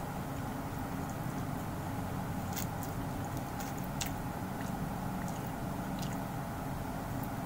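Close-up chewing and wet mouth sounds of a person eating by hand, with a few sharp clicks scattered through, over a steady low hum.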